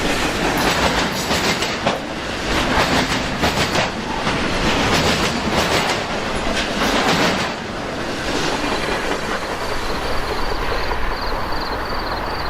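Circus train's cars rolling past on the rails, wheels clicking rhythmically over the rail joints. About two-thirds of the way through the clicking gives way to a steadier rumble, and a faint, rapid high-pitched pulsing starts near the end.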